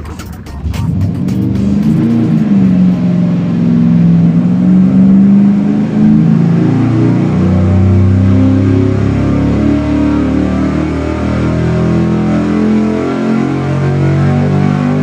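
A 383 cubic-inch small-block Chevy V8 on multi-point fuel injection running hard on an engine dyno during a baseline pull, with background music mixed over it.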